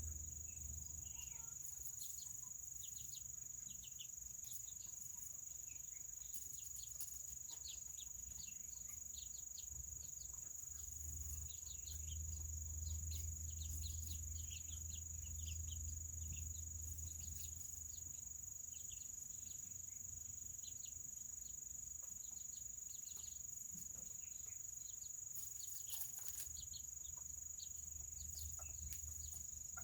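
Serama chickens peeping and chirping softly in short, scattered calls, over a steady high insect-like whine and a low rumble.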